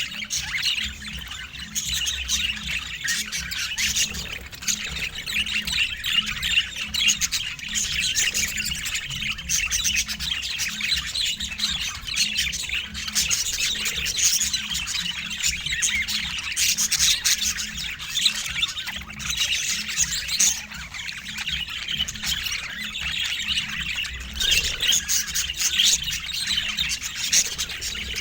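Budgerigar chattering nonstop: a fast, unbroken stream of chirps, warbles and squawks, over a low steady hum.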